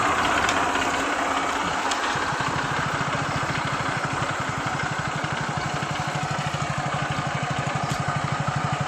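Eicher 380 tractor's diesel engine running steadily with an even, fast chugging beat that becomes clearer about two seconds in.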